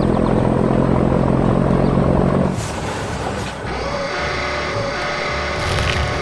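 Heavy vehicle engine running loud and steady, cutting off abruptly about two and a half seconds in, followed by quieter machinery with several steady high tones.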